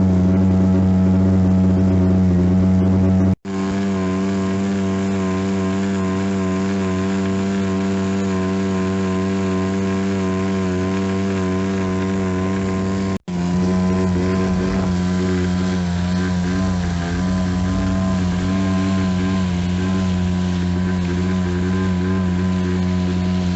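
Motorboat engine running steadily at planing speed, its even drone mixed with a rush of noise. The sound cuts out for an instant twice.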